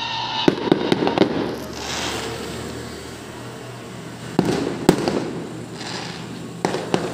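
Aerial fireworks bursting overhead. A quick run of sharp bangs comes about half a second to a second and a half in, the loudest cluster around four and a half to five seconds, and a couple more near the end, with a continuous crackling haze between the bangs.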